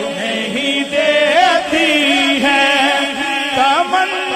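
A voice singing a naat in a slow, melismatic style. It holds and ornaments long sliding notes over a steady drone, with no clear words.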